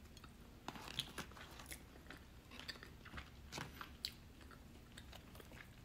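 A person chewing a mouthful of barbecue brisket with her mouth closed: faint, irregular small clicks and smacks of the mouth and teeth.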